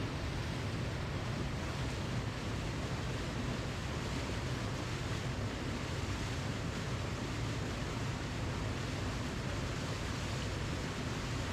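A waterfall's steady, unbroken rush of falling water, even and without changes.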